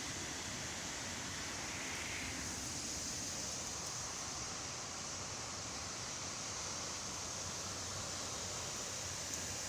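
Steady outdoor background noise: an even hiss with no distinct sounds standing out.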